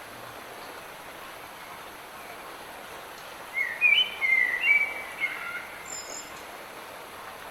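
Steady hiss of light rain, with a songbird singing one short phrase of quick chirped notes from about three and a half to six seconds in.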